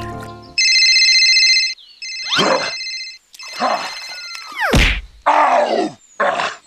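Edited-in cartoon sound effects: two bursts of an electronic ringing tone, then a quick falling whistle with a low thud, followed by several short noisy hits.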